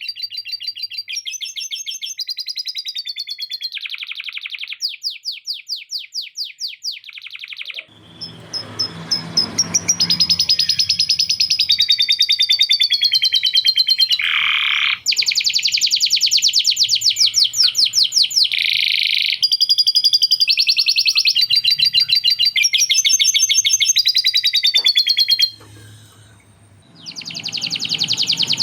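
Male canary singing a long, near-continuous song of fast trills and rolls, trained with phrases copied from a lovebird's chatter. The song breaks off briefly near the end, then resumes.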